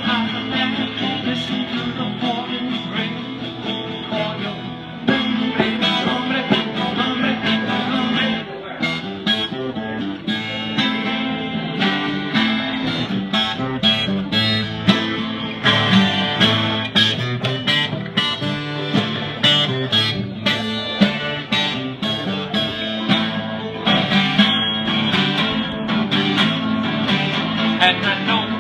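Taylor 12-string acoustic guitar played as a song, strummed and picked; from about eight seconds in the strums become sharper and more frequent.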